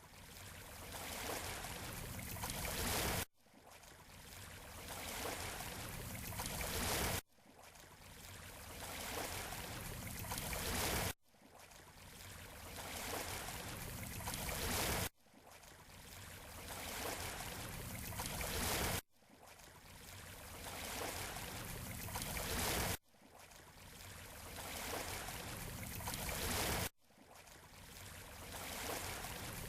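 Waves washing onto a beach, a steady wash of surf that builds over about four seconds and then cuts off abruptly, the same short recording repeating in a loop.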